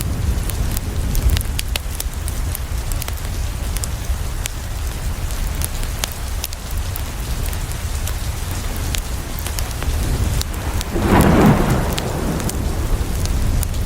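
Steady rain on a window, with a low rumble and scattered sharp crackles from a wood fire. About eleven seconds in, a roll of thunder swells for about a second.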